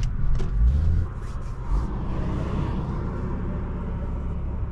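BMW 540i's turbocharged straight-six with aftermarket downpipe and catback exhaust pulling under throttle, its note rising, then the driver lifts off about a second in, with a few crackles from the exhaust, and it settles into a steady low drone at cruise.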